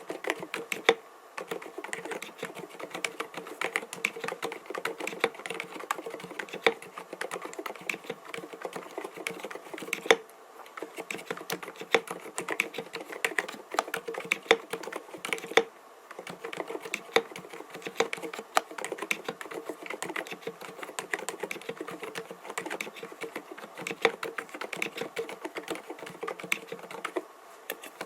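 Typing on an mStone Groove T 87A mechanical keyboard fitted with 45 g silent (low-noise) Milky switches: a fast, steady stream of keystrokes, with brief pauses about a second in, around ten and sixteen seconds, and near the end.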